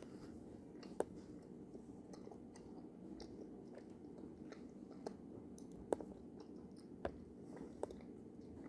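Close-up mouth sounds of someone chewing a soft gummy candy, with several sharp wet clicks of the mouth and teeth, the loudest about a second in and about six seconds in, over a faint steady hum.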